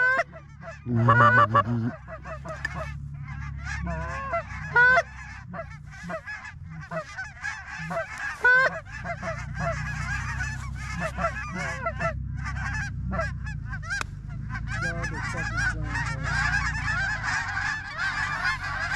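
A flock of geese honking: a few loud, close honks about a second in, then many overlapping honks that build into a dense, continuous chorus over the second half, with a low rumble underneath.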